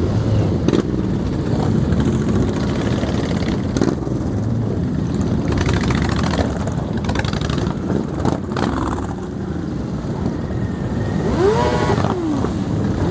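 Many motorcycle engines running together in a steady rumble, with one engine's pitch rising and falling briefly near the end as it is revved or rides past.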